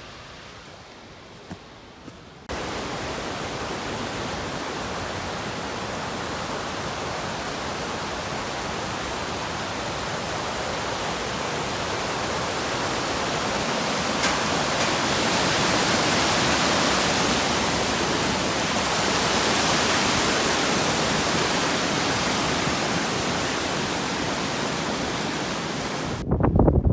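Rushing water of a fast stream or waterfall, a steady loud hiss that starts abruptly a couple of seconds in and swells gently before cutting off near the end.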